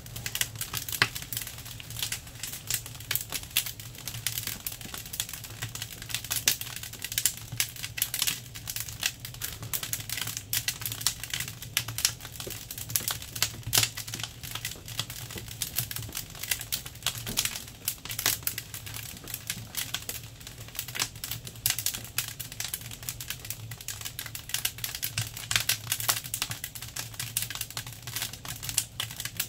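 Firewood crackling and snapping in a freshly lit wood-burning stove, a dense run of irregular sharp pops over a low steady hum.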